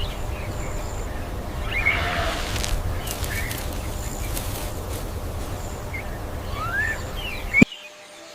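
Outdoor nature ambience: scattered short bird chirps and rising whistles over a steady low rumble, cut off suddenly by a sharp click near the end.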